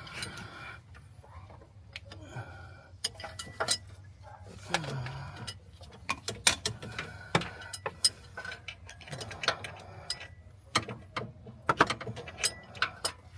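Hand tools clicking and clinking on metal: many sharp, irregular clicks, like a ratchet wrench working and tools being handled.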